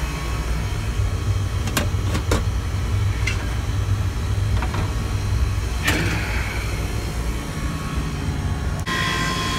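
Steady low machinery hum, broken by a few sharp clicks and knocks. Near the end the sound changes abruptly to a refrigeration condensing unit's compressor running with a steady whine, just started after its breaker was switched back on.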